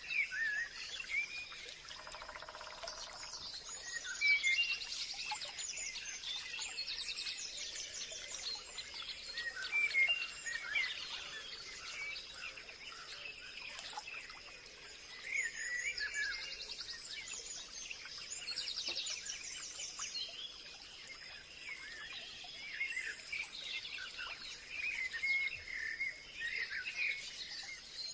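Forest ambience: many birds chirping and calling over one another, with fast trills coming and going and a steady high-pitched insect drone underneath.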